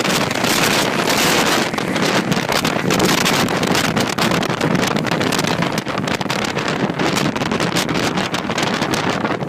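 Jet blast from a Boeing 747-400's four engines at takeoff power: a loud, continuous rushing blast of air with heavy wind buffeting on the microphone.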